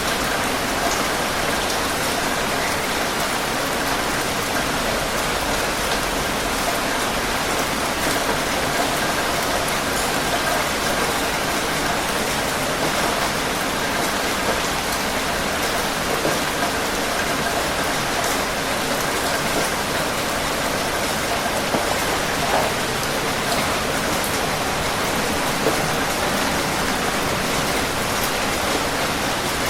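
Steady rain: an even, continuous hiss of rainfall with scattered small drop ticks.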